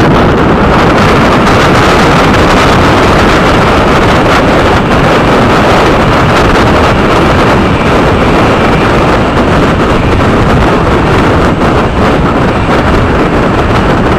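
Passenger express train running at speed, heard from an open coach door: steady wheel-and-rail noise mixed with heavy wind buffeting the microphone.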